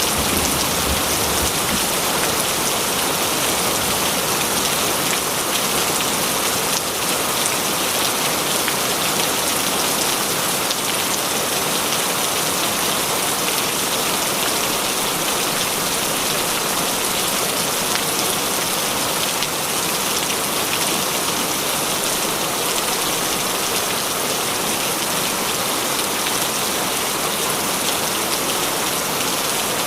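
Heavy rain falling steadily, a dense, even patter of raindrops.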